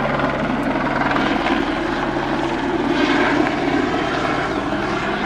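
Eurocopter AS350 A-Star helicopter in flight, its rotor and turbine making a steady, loud drone throughout.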